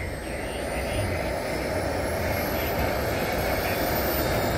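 Radio-controlled model aircraft engine running steadily and slowly getting louder, with a thin high whine that rises gradually in pitch.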